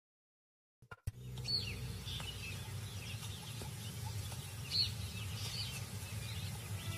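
Digital silence for about the first second, then a few short bird chirps over a steady low rumble of outdoor background sound.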